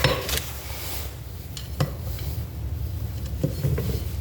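Small metal parts clicking and scraping as a bearing-retainer screw is fitted into a Toyota 4A-FE distributor housing, with a few sharp clicks.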